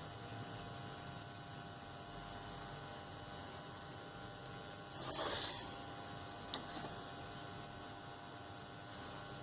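Steady low electrical hum, with one brief scratchy rustle of paper about five seconds in and a couple of light clicks just after.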